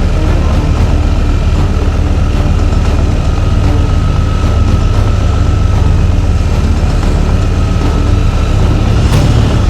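Motorcycle engine running steadily on a steep downhill, a deep even rumble with a faint steady whine above it. There is a short click near the end.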